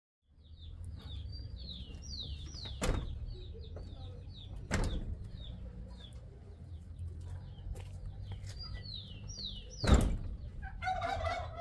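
Birds chirping in a string of quick falling notes over a steady low rumble, broken by three sharp knocks at about three, five and ten seconds in; the last knock is the loudest.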